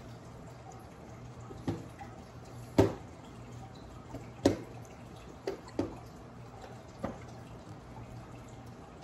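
A toddler eating, chewing and smacking his lips, with about half a dozen sharp short clicks, the loudest around three seconds in and halfway through. A steady low hum runs underneath.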